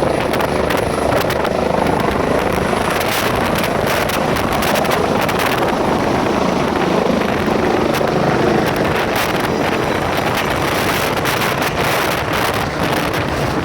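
Helicopter running close by: a loud, steady rotor and turbine noise with a rapid, even chop from the blades.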